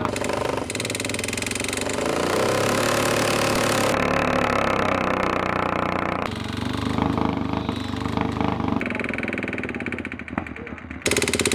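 Motorcycle engines running hard at high revs, the pitch climbing for a couple of seconds early on, in several short clips cut one after another with abrupt changes in sound.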